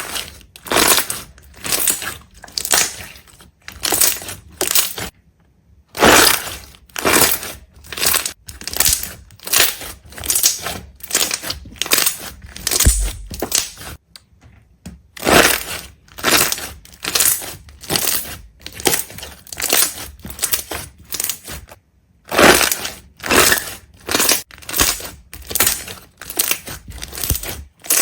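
Repeated crisp crushing crunches, about two a second, with short pauses about six seconds in and about twenty-two seconds in.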